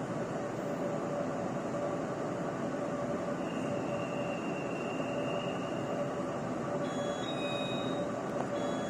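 Steady running noise of a Chu-Kuang Express passenger car heard from inside while under way, with a faint high whine in the middle and a few short high-pitched tones near the end.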